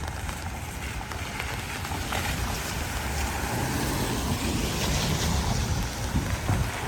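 Strong storm wind gusting and buffeting the microphone in a low, noisy rumble. It grows louder in the second half.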